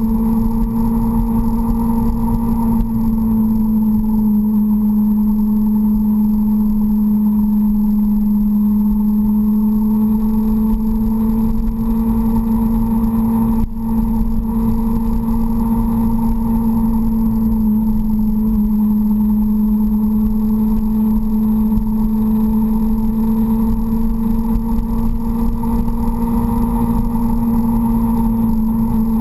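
Suzuki GSX-R sport bike's inline-four engine running steadily at cruising revs, with wind rumble on the bike-mounted microphone. The engine note dips briefly about halfway through.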